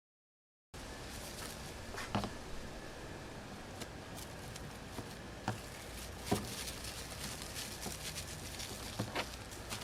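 Faint steady background hiss with a few short, light knocks and taps scattered through it.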